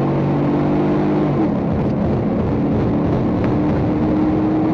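A road vehicle's engine running at speed over steady road noise. Its pitch drops about a second and a half in, then settles into a steady hum.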